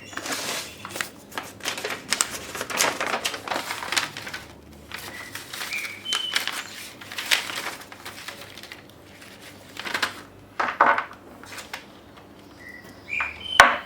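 Hands rustling material and handling small parts on a workbench: a dense run of irregular clicks and rustles for several seconds, then a few scattered knocks and a sharp click near the end.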